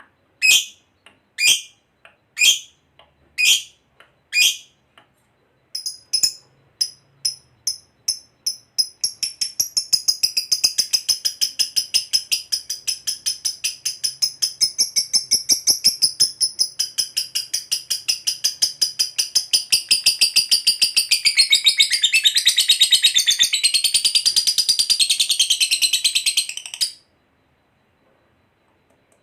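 Lovebird song: a few separate sharp calls about once a second, then pulses that quicken and run together into a long, fast chattering trill lasting nearly twenty seconds, which stops abruptly near the end. This long unbroken chatter is the 'ngekek panjang' that lovebird keepers prize.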